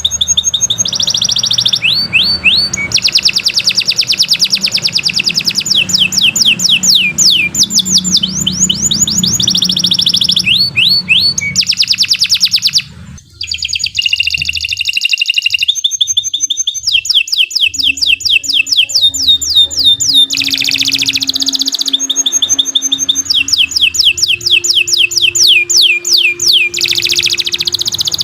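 Domestic canary singing loudly in long, unbroken phrases of rapid trills and quick repeated whistled sweeps, with one short pause about thirteen seconds in.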